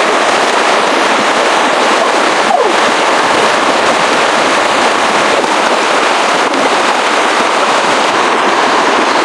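Loud, dense crackling that carries on without a break.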